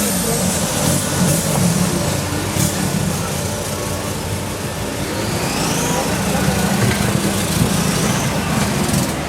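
Off-road vehicle's 1.9 TDI turbodiesel engine running, a steady low drone.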